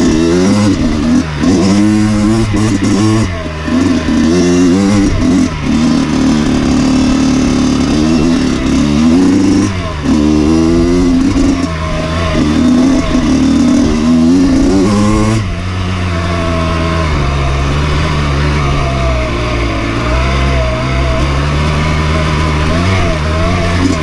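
Dirt bike engine being ridden, its pitch rising and falling repeatedly with the throttle, then settling to a steadier, lower note about fifteen seconds in.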